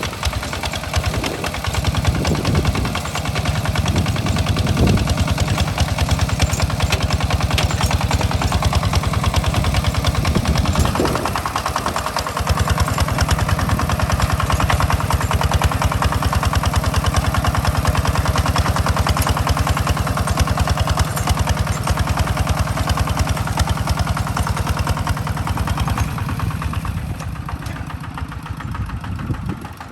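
Small tractor engine running steadily while plowing, with a rapid even firing beat; it eases off and gets quieter near the end.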